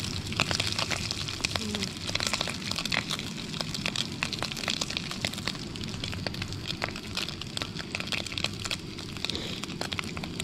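Perch frying in oil in a pan on a camp stove: a steady sizzle with many small crackles and pops of spattering oil.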